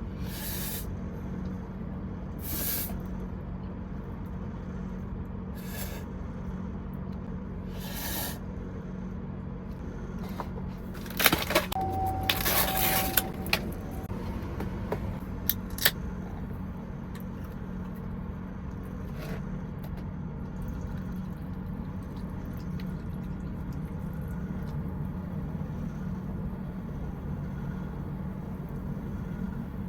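A steady low hum from the parked truck's idling engine, with intermittent scrapes, rustles and clicks of handling close by. The loudest spell comes about eleven to fourteen seconds in.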